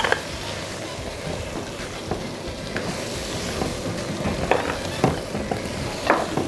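Goose wing and neck pieces with carrots and onions frying in oil in a nonstick pan, sizzling steadily while being stirred, with a few sharp taps and scrapes of the spatula against the pan.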